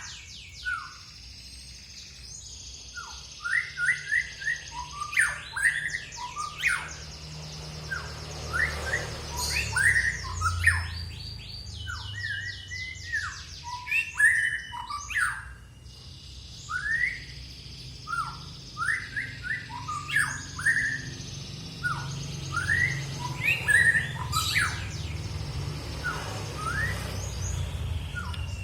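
A caged songbird singing a long, varied song of sharp chirps and fast buzzy trills, delivered in repeated phrases with a short pause midway, over a steady low hum. This kind of song is used as a pancingan recording to provoke other songbirds into singing.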